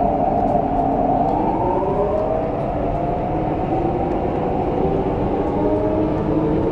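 Interior running noise of a CRRC Changchun EMU motor car on the move, with the whine of its Mitsubishi Electric IGBT-VVVF traction inverter and motors heard as several steady tones over the rumble. The tones drift slowly in pitch.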